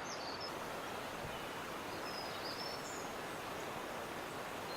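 Natural outdoor ambience: a steady rushing hiss with a few short, high bird chirps and whistles, most of them about two to three seconds in.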